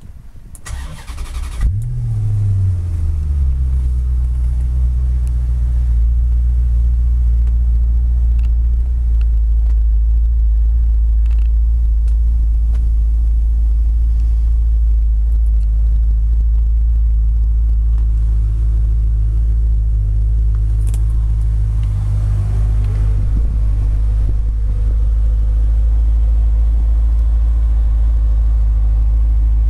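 Maserati GranSport's 4.2-litre V8 cranked by the starter and catching about two seconds in, flaring up and then settling into a steady, deep idle. The engine note rises slightly about three-quarters of the way through.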